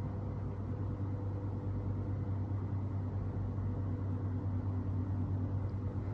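Construction machinery running steadily: a strong low hum with a few constant higher tones over an even rushing noise.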